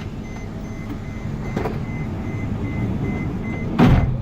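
Vehicle engine running steadily with a repeated electronic warning beep, about two a second, that stops shortly before one loud thump near the end.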